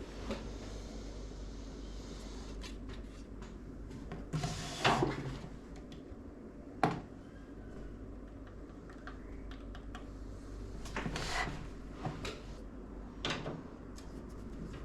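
Hands handling PC parts and the case during assembly: scattered clicks, knocks and light rattles, loudest about five and seven seconds in, with a few more later.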